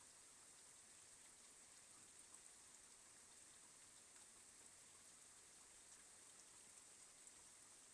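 Faint, steady rain with scattered drops pattering, heard as a soft even hiss.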